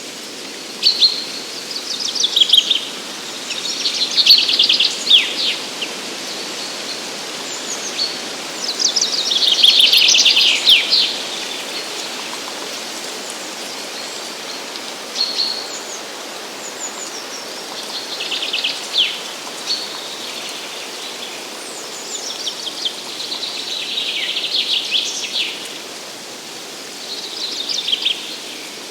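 Songbirds singing: short, rapid trilled phrases, some sliding downward in pitch, repeated every few seconds and sometimes overlapping, over a steady background hiss.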